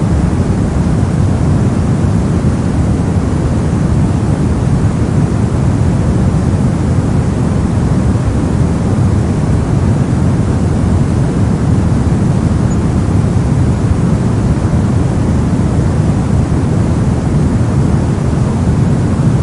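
Soft noise for sleep and study: a steady, unchanging deep hiss, heavier in the low end than in the highs, with no events or changes.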